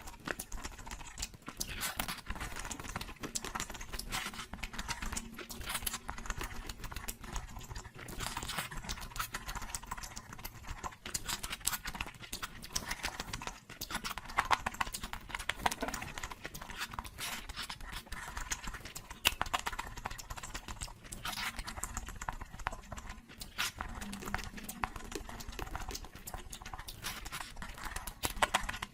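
Close-miked eating sounds: chewing and mouth noises, a dense, irregular run of small clicks and crackles.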